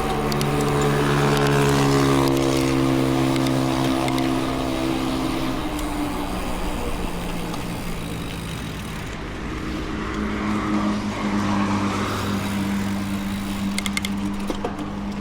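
A motor vehicle's engine passing close by, its pitch falling as it goes past and fades; a second engine hum comes up about ten seconds in.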